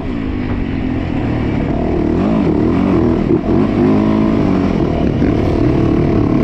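Yamaha YZ450F single-cylinder four-stroke dirt bike engine on the move: its pitch drops sharply as the throttle closes at the start, then rises and falls again and again with throttle and gear changes.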